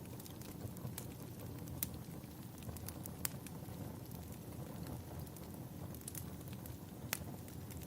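Wood fire burning in a fireplace: a steady low rumble with scattered sharp crackles and pops, a few louder pops about two, three and seven seconds in.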